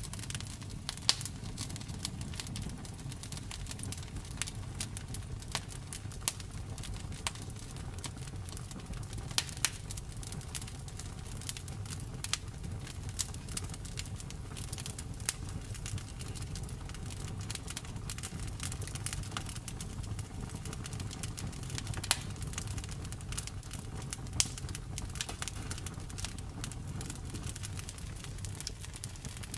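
Wood fire crackling in a fireplace: a steady low rumble of the flames with frequent sharp pops and snaps, a handful of them louder than the rest.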